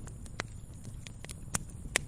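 A fire crackling in a fireplace: sharp pops and snaps every half second or so over a low steady rumble of flames, with the loudest pop near the end.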